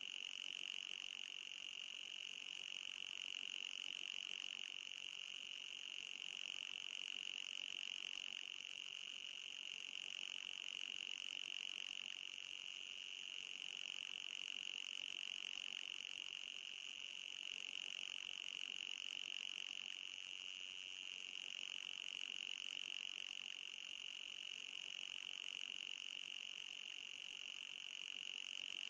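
Steady, high-pitched electronic tone of an anti-mosquito repeller sound, with a fainter higher overtone and a gentle swell in loudness every few seconds.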